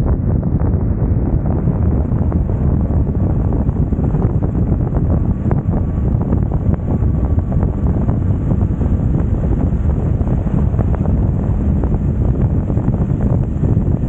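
Heavy wind noise on the microphone at riding speed, over the steady running of a Yamaha YZF-R1's crossplane inline-four through an Akrapovic exhaust.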